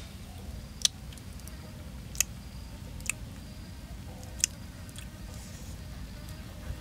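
A person chewing dried fish, with four sharp crunching clicks at uneven gaps of about a second, over a low steady rumble.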